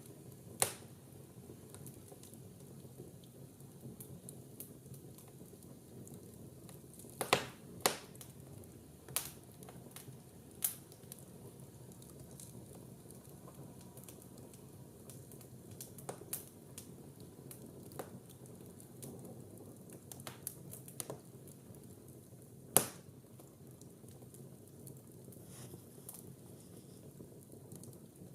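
Wood fire burning in an open fireplace: a low steady hiss with scattered sharp crackles and pops. The loudest pops come about 7 to 8 seconds in and again about 23 seconds in.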